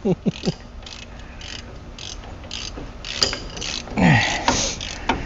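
Hand ratchet clicking in short strokes, with a few sharp metal clicks and knocks from the socket and wrench, as a tight wheel-hub mounting bolt is worked loose.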